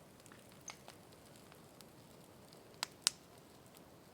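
Large bonfire of felled pine saplings crackling faintly, with scattered small snaps and two sharp pops close together about three seconds in.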